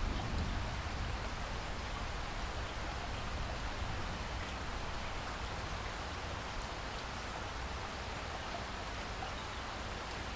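Steady rainfall, an even hiss of rain with scattered faint drop ticks on a surface.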